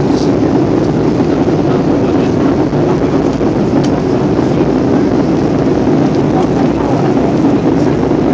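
Steady rumble of rushing air and engines inside the cabin of an Airbus A320 in flight on its approach, an even, unbroken noise.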